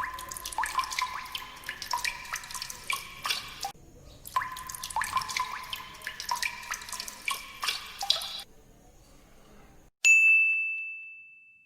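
Quick plinking sounds like water dripping, in two runs of about four seconds each, followed by a single bright ding that rings and fades away.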